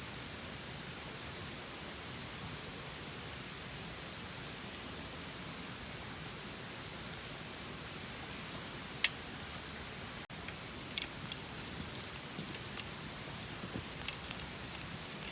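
Open wood campfire burning: a steady hiss with a few sharp crackling pops in the second half.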